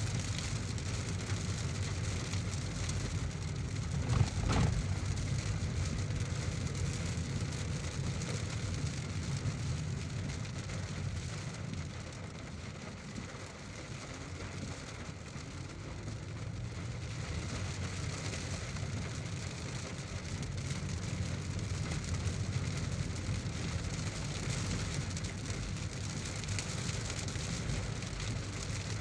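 Heavy rain on a moving car, over a steady low rumble of the road and engine. A single thump comes about four seconds in, and the sound eases a little around the middle before building again.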